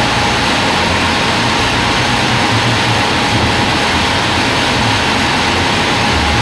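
Portable sawmill (gergaji selendang) running steadily, a loud continuous machine noise with a faint steady whine.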